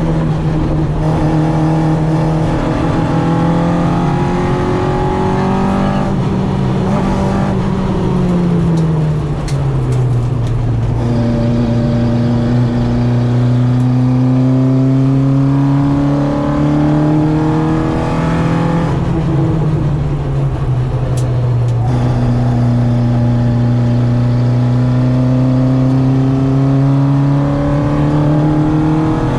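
Citroen AX 8-valve four-cylinder engine breathing through twin Weber 40 carburettors, run hard on a race track. The revs fall about eight seconds in, then climb slowly twice under long pulls.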